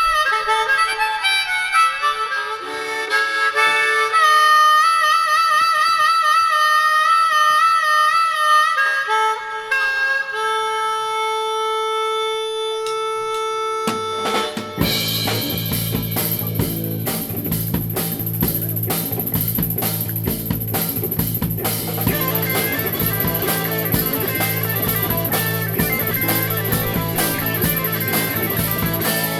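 Live blues-rock band music: a harmonica plays alone, with wavering held notes and bends, then about halfway through the full band comes in with drums and a steady bass line under it.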